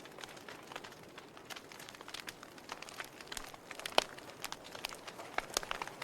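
Fire burning in a fireplace, crackling with irregular sharp pops over a soft hiss; one louder pop about four seconds in.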